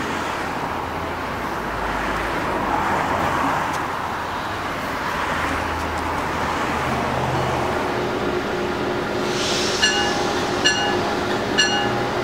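Amtrak Acela Express trainset approaching at speed with a steady rumble. From about ten seconds in, a bell rings about once a second as the train comes up.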